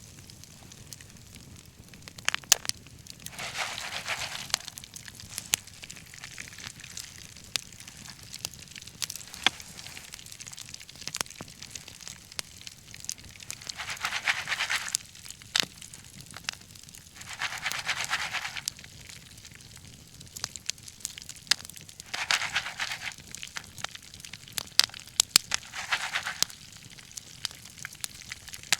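Wood bonfire crackling, with sharp irregular pops of burning logs. Five times a soft rushing hiss swells up for about a second and dies away.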